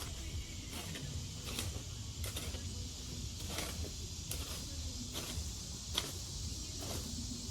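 Garden tiller running steadily while it works soil, with irregular clicks and knocks as the tines strike dirt and debris; the sharpest knock comes about six seconds in.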